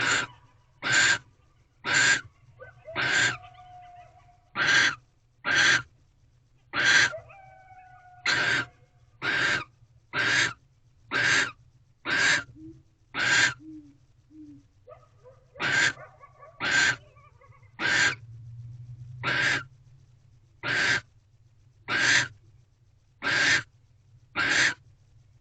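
Barn owl giving short, harsh, breathy hissing calls over and over, about one a second, with a few faint thin whistled notes in between.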